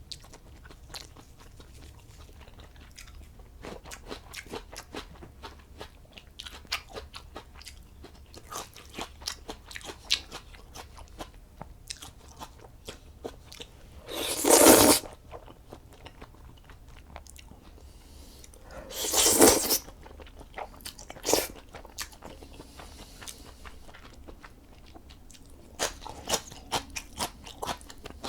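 A person eating black bean noodles close to the microphone: many small chewing and mouth clicks, with two louder noisy bursts of about a second each, about fourteen and nineteen seconds in.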